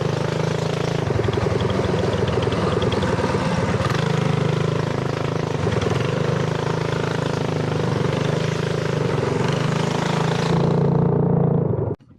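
Small mini bike engine running steadily with a fast, even firing pulse, cutting off suddenly near the end.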